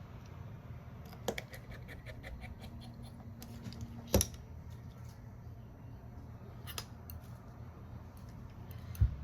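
Small tools and phone parts being handled on a repair bench: a quick run of light ticks, then a few sharper clicks and taps, with a low thump near the end, over a steady low hum.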